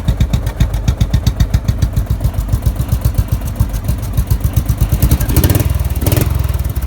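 Straight-piped 12.5 hp Briggs & Stratton riding-mower engine running with an even, loud chugging beat, revved up briefly twice near the end.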